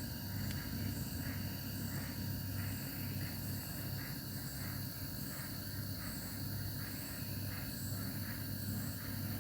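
Refrigerator compressor used as an air pump, running with a steady low electric hum and a soft hiss that pulses about twice a second.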